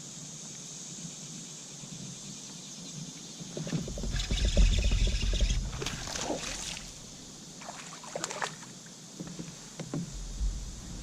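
Water sloshing and dripping around a fishing kayak, with knocks and bumps against the hull, loudest from about four to six seconds in.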